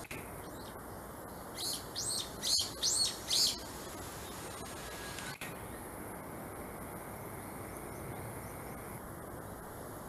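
A bird calling: a quick run of about six short, high, arched notes over roughly two seconds, above a steady outdoor hiss.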